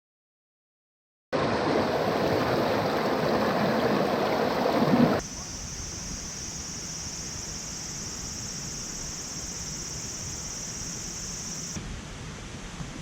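Mountain stream rushing loudly, starting suddenly after a second of silence. About five seconds in it cuts to the stream heard more faintly, under a steady high-pitched hiss that stops shortly before the end.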